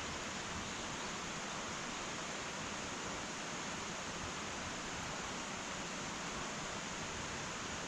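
Wood fire burning in an irori hearth: a steady, even hiss with no distinct crackles or pops.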